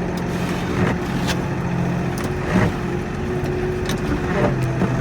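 Kioti NX4510 compact tractor's diesel engine running steadily under load while plowing deep snow, with a few short knocks.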